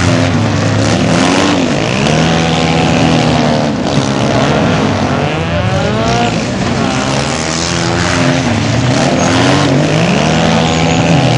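Engines of rally cars and a sport quad bike being revved hard and let off again and again, their pitch rising and dropping about once every second or so.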